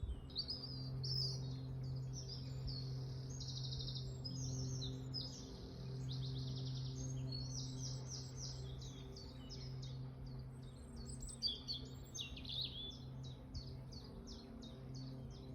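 Songbirds singing continuously in a spring chorus of rapid high trills and repeated chirps, busiest a little after the middle. A steady low hum runs underneath.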